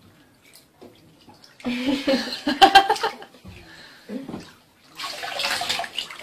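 Water splashing and sloshing in a bathtub, loudest in a burst about two seconds in and again about five seconds in.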